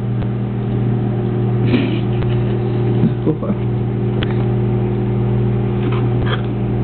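Microwave oven running with a steady, loud electrical hum while marshmallow Peeps heat inside.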